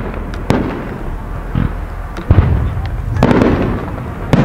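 Fireworks display with aerial shells launching and bursting: a string of sharp bangs about one a second, the loudest a little past two seconds in.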